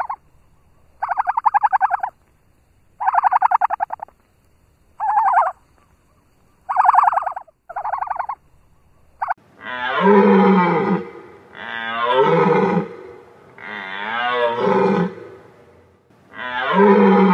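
Animal calls of two kinds. First come short buzzing calls, about one every two seconds. About halfway through, louder, longer calls take over, each wavering in pitch, also about one every two seconds.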